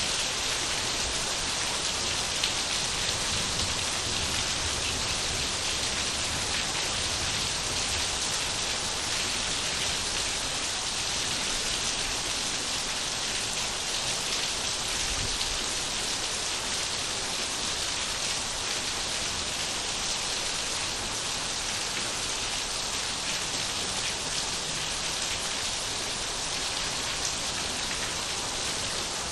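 Steady rainfall, a continuous even hiss of rain on surfaces with no breaks or changes.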